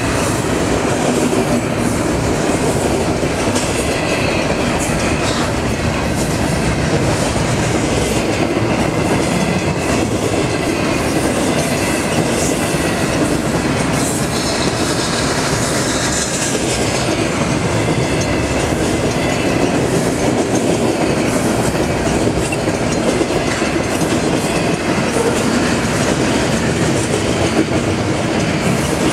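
A BNSF double-stack freight train's cars rolling past: a steady, loud rumble of steel wheels on the rails.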